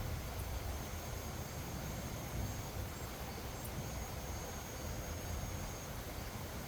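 Gusty wind buffeting the microphone in a steady uneven rumble, with a faint high insect trill coming and going above it.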